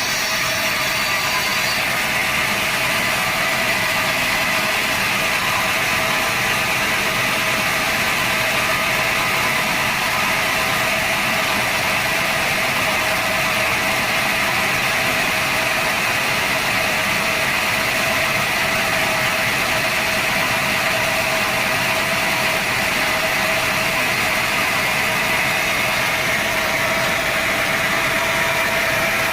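Sawmill saw machine running steadily with a constant whine and a hiss, unchanging throughout.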